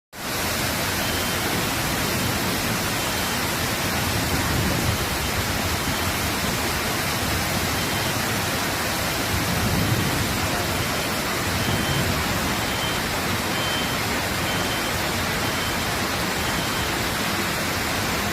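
Steady rushing noise of a fast floodwater current.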